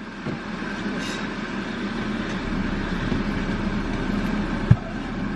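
Steady road and engine noise inside a moving car, with one sharp click a little before the end.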